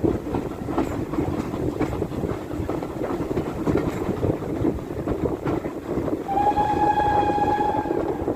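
Heritage train running on the line with a steady rumbling clatter of wheels on rails. About six seconds in, the locomotive sounds one steady, high warning note for about two seconds.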